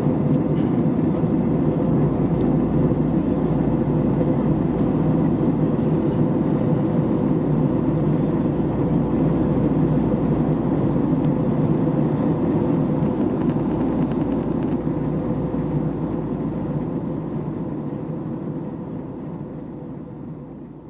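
Airbus A320neo cabin noise during the climb after takeoff: a steady jet engine and airflow rush with a constant hum, fading out over the last few seconds.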